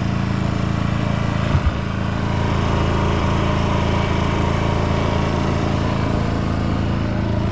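A sailboat's inboard engine running at a steady speed, an even low drone, with one short knock about one and a half seconds in.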